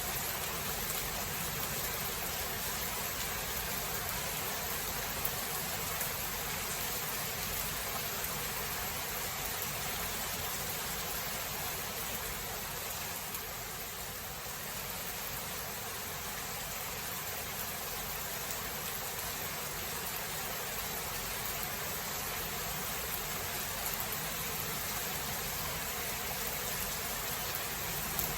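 Steady rain from a thunderstorm: an even hiss with no distinct thunderclap, easing slightly for a few seconds about halfway through.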